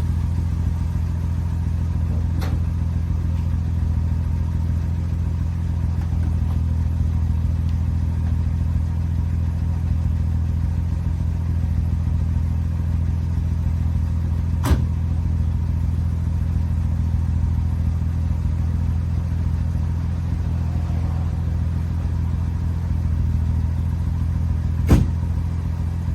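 1971 Jaguar E-Type's straight-six engine, fitted with triple SU carburettors and a Borla exhaust, idling steadily at an even pitch. A few sharp clicks stand out over it, the loudest near the end.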